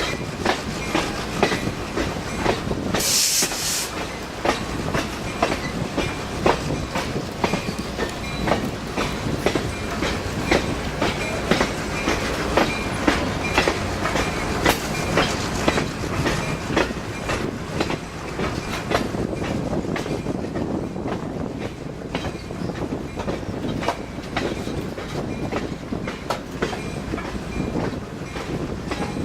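Passenger train rolling along the track, wheels clicking and clattering over rail joints with a steady rumble underneath. A short hiss comes about three seconds in.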